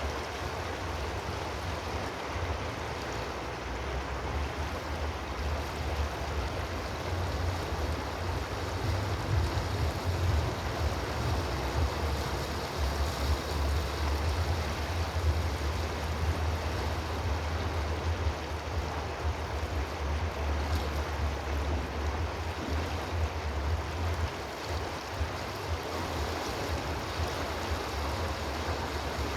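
Steady rush of running water, with a deep rumble underneath.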